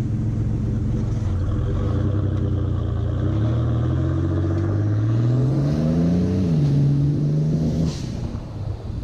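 1991 GMC Syclone's turbocharged 4.3-litre V6 running through a Borla cat-back exhaust with dual outlets, first steady, then accelerating with rising pitch for about three seconds before dropping back to a lower steady note as it shifts up. Near the end a short hiss as the throttle closes, typical of the aftermarket blow-off valve venting.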